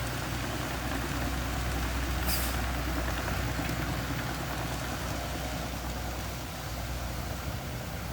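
Mini bulldozer's diesel engine running steadily with a low rumble, with a short hiss about two seconds in.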